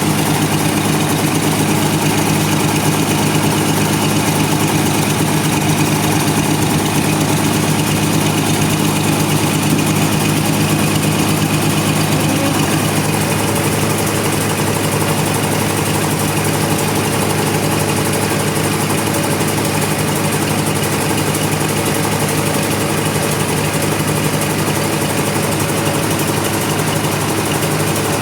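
Sawmill engine running steadily at a constant speed, an even mechanical hum with no change in load.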